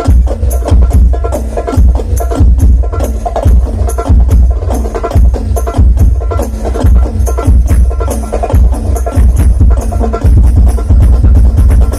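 Music with a quick clacking percussion beat and heavy, booming bass, played very loud through a large 'horeg' sound system.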